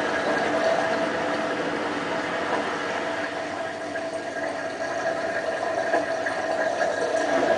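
Hotpoint Ultima WT960 washing machine running mid-cycle, its motor giving a steady whine over the drum's churning.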